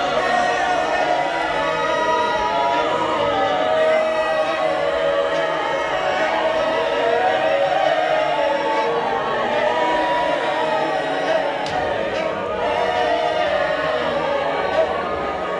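A choir singing together in many voices, holding long notes that move slowly from one to the next.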